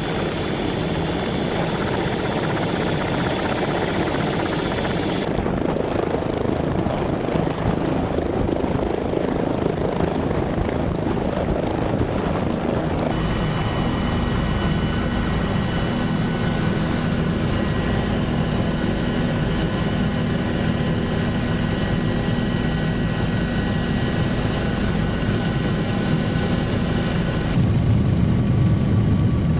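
Bell OH-58 Kiowa Warrior helicopter running, a steady mix of turbine and rotor noise. The sound shifts abruptly three times, about 5 s in, about 13 s in and just before the end, where it gets louder.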